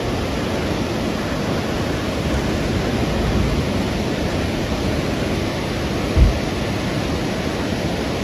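Fast-moving floodwater rushing steadily, a river in flash flood, with a brief low thump about six seconds in.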